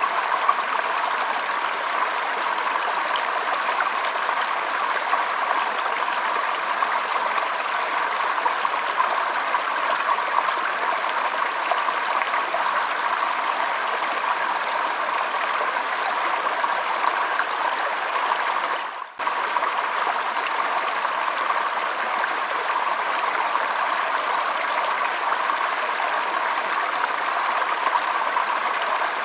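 Shallow stream trickling and flowing over stones in a steady, even rush of water, with a brief dip in level about two-thirds of the way through.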